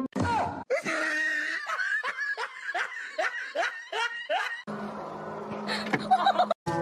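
A person laughing in a run of short, falling "ha" sounds, about three a second. About four and a half seconds in it gives way to a steadier sound with a low hum that cuts off abruptly near the end.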